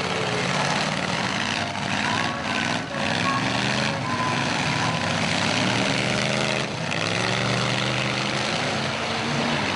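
Engines of several demolition derby cars and trucks running and revving together in a loud, continuous mix, their pitches rising and falling, with no distinct crash impact.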